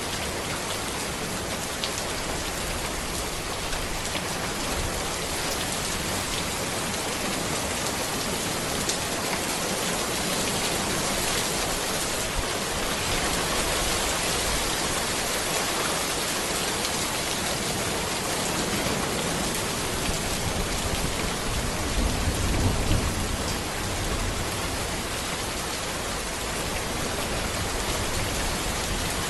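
Steady rain falling on a road and the trees around it, an even hiss with scattered drop ticks. About three quarters of the way through, a low rumble swells briefly.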